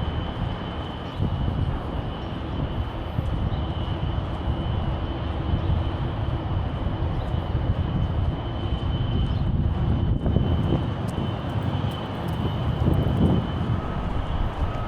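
Steady low rumble of downtown street noise, with a faint steady high whine.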